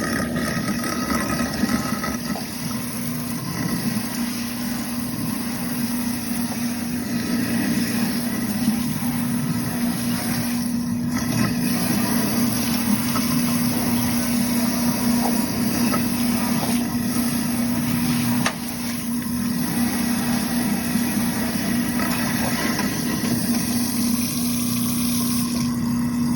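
Kitchen sink garbage disposal running and grinding up food left sitting in it, with a steady motor hum under a hiss. It is clearing the food that blocked the shared drain and backed the dishwasher's drain water up into the dishwasher.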